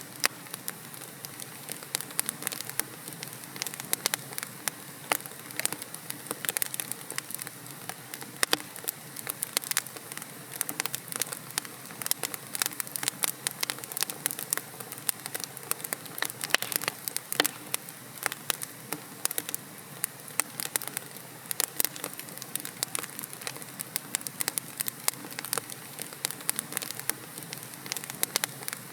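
Wood logs burning in a fireplace: a steady hiss of flame with many sharp, irregular crackles and pops.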